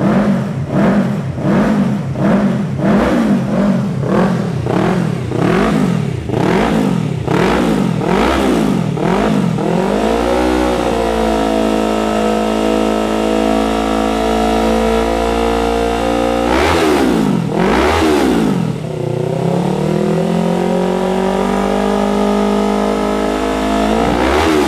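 Yamaha R3's 321 cc parallel-twin engine being revved in quick throttle blips, about two a second. It is then held at steady high revs for several seconds, blipped twice, and brought back up to a steady high rev.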